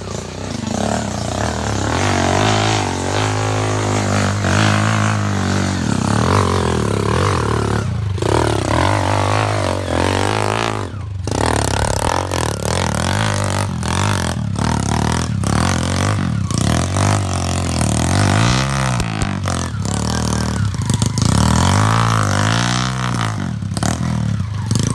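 Enduro dirt bike engine running with the throttle opening and closing, its pitch rising and falling again and again, with a few sharp knocks in between.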